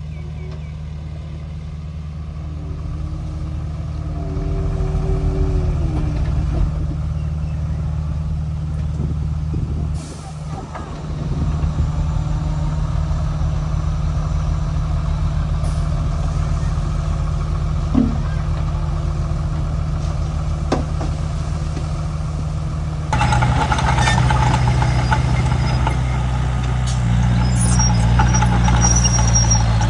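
Komatsu D31P bulldozer's diesel engine running steadily, then rising in pitch and level about 23 seconds in as it works harder. A thin high-pitched whine joins it near the end.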